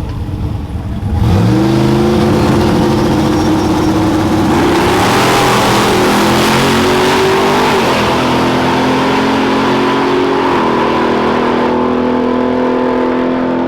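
A high-horsepower drag vehicle's engine launching at full throttle. The pitch jumps sharply about a second in, then holds high with a couple of small drops as it shifts through gears, over a loud hiss, before it cuts off suddenly.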